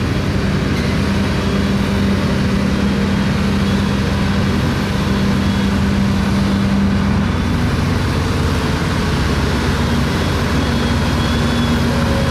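Vintage tractor engine running steadily while ploughing. Its note changes about seven seconds in.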